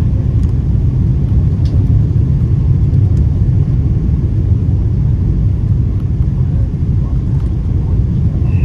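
Steady low rumble of an Airbus A330 airliner heard from inside the cabin in flight: engine and airflow noise, with a few faint ticks.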